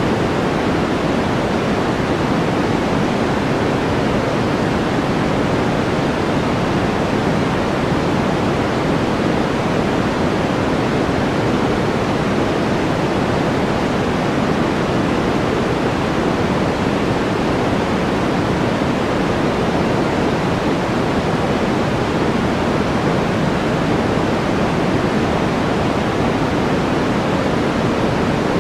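Steady white-noise background track: an even, unchanging hiss, fuller in the low and middle range than in the highs.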